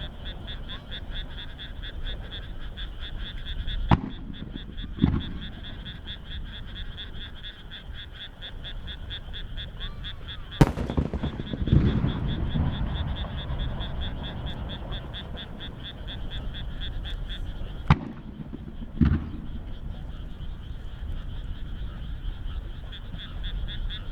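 A steady chorus of frogs calling in fast, even pulses, with three aerial firework shells going off over it. Each shell gives a sharp bang followed about a second later by a deeper boom.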